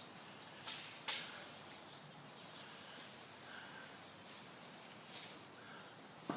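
Faint outdoor ambience with a few sharp clicks, a pair about a second in and another near the end.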